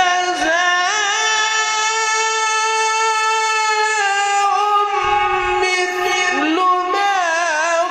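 Male Quran reciter's voice in melodic mujawwad-style recitation, holding one long drawn-out note for about six seconds, then winding through ornamented turns near the end.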